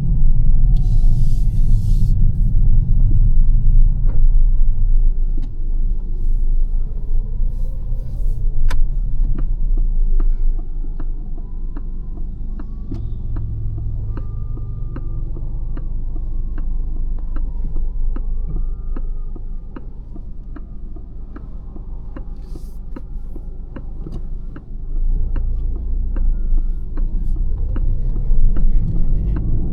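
Low road and tyre rumble in the cabin of a Lancia Ypsilon on the move. The rumble eases in the middle and builds again about 25 seconds in. A regular light ticking, roughly every half second, runs through the quieter middle stretch.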